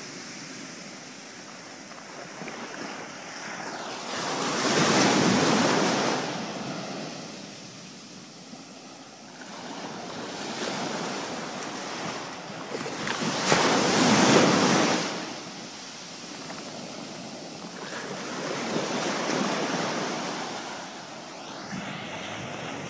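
Ocean surf washing up a beach, wave after wave swelling and fading, the two biggest washes about 5 and 14 seconds in.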